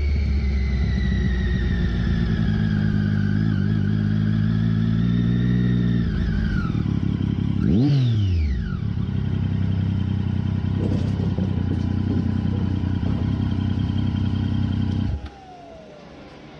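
Triumph Daytona 675 three-cylinder engine with a Hindle slip-on exhaust running at low revs. It gives one quick rev blip about eight seconds in, then stops abruptly near the end.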